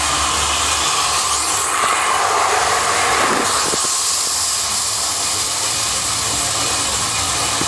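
Lionel model train running on its track: a steady whirring hiss with no pauses.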